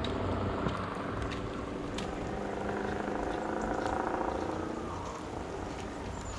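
A motor vehicle's engine running as it goes by on the road, growing louder to a peak partway through and then fading.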